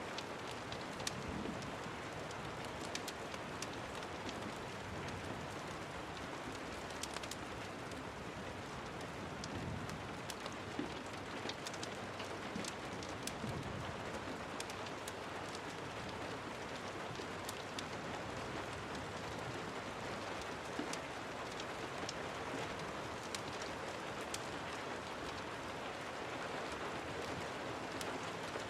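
Steady rain falling on a surface, an even hiss with scattered sharp clicks throughout.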